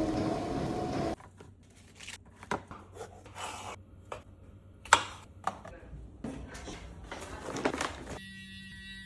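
A second of loud steady noise that cuts off suddenly, then scattered rustling, clicks and knocks of things being handled. Near the end a steady electrical hum with a few fixed tones comes in.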